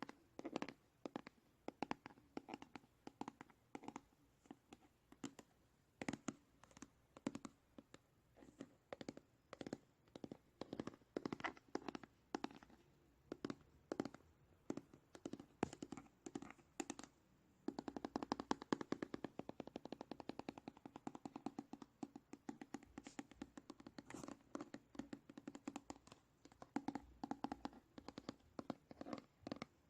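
ASMR tapping: irregular light taps on an object, breaking into a fast flurry of rapid taps for a few seconds past the middle, then slower taps again.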